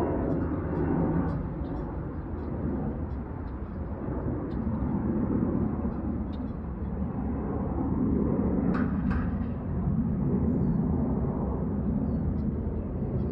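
Airliner cabin noise in flight: a steady low rumble of engines and airflow heard from inside the cabin, swelling and easing slightly, with a couple of faint clicks about nine seconds in.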